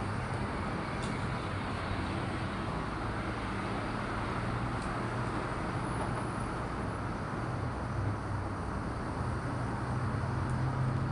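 Steady background noise with a low hum throughout, and a couple of faint ticks.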